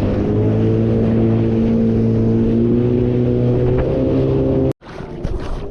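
Jet ski engine running at a steady speed under way, its hum mixed with wind and water noise. It cuts off abruptly shortly before the end, leaving a quieter hiss.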